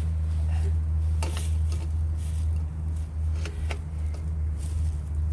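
Metal tools clinking on the old well pump pressure switch and its threaded fitting as it is worked loose to unscrew it: a few sharp clicks scattered through, over a steady low hum.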